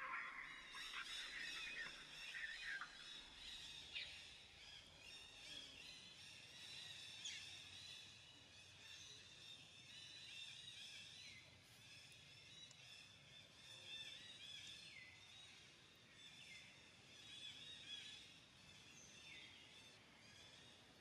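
Faint chorus of birds chirping, a dense layer of high chirps with a falling call every few seconds.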